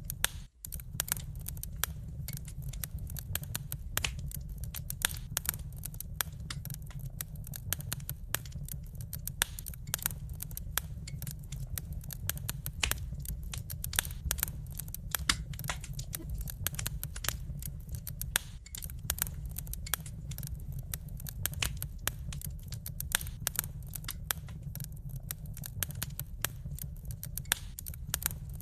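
Wood fire crackling in a fireplace: dense, irregular pops and snaps over a steady low rumble. The sound drops out briefly about half a second in.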